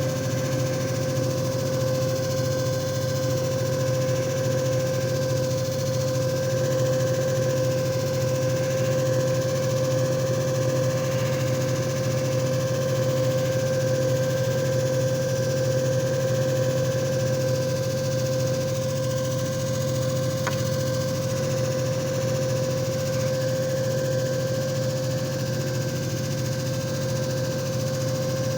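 JFJ Easy Pro disc repair machine running steadily: a constant motor hum with a strong, unwavering whine over it.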